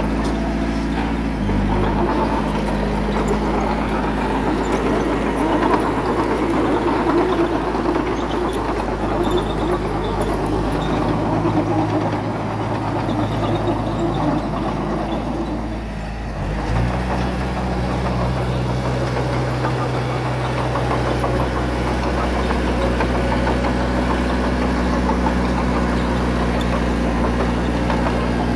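Heavy diesel engine of earthmoving equipment running steadily. Its pitch drops about a second and a half in and rises again a little past halfway, with a rougher noise over the middle stretch.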